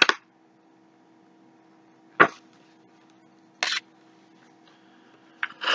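Pages of a paperback picture book being handled and turned: three short rustles, the second and third about two and three and a half seconds in, over a faint steady hum.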